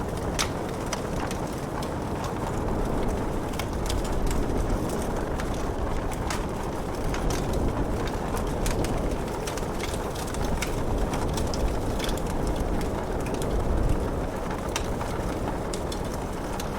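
Wood fire in a fireplace crackling, with irregular sharp pops and snaps over a steady rushing noise of rain.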